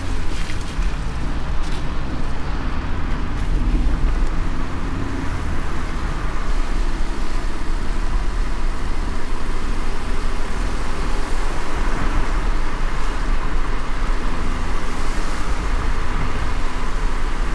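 Steady road noise of a car driving in light rain: a continuous low rumble of tyres and engine under an even hiss.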